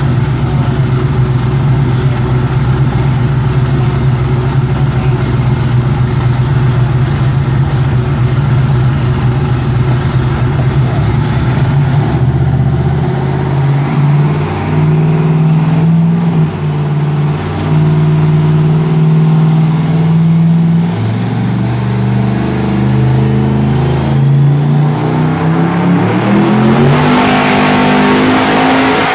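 Race car engine running loud on a dynamometer: held at steady revs for about twelve seconds, then the revs shift up and down in steps, and near the end they climb smoothly.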